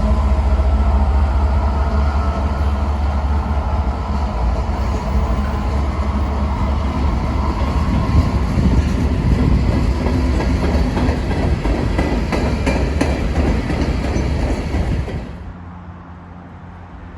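Freight train passing close by: a steady low rumble with rapid wheel clicks over the rail joints. It cuts off abruptly about fifteen seconds in.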